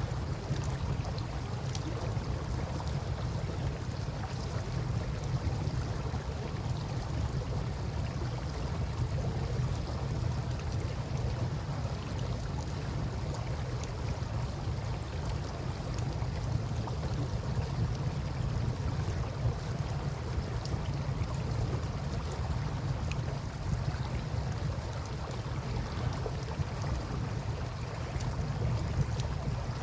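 Campfire burning beside a flowing river: a steady rush of water with a deep low rumble, and small fire crackles scattered through it.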